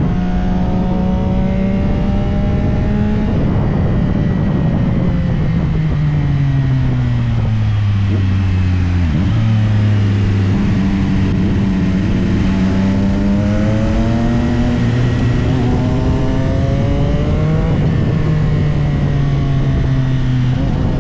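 CFMOTO 675SR-R's inline-three engine under riding, its revs falling over several seconds, then climbing steadily for several more before dropping slightly and holding, over a steady rush of wind.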